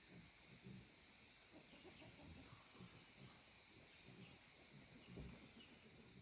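Near silence: faint outdoor ambience, with a steady high hiss and faint, irregular low rustling.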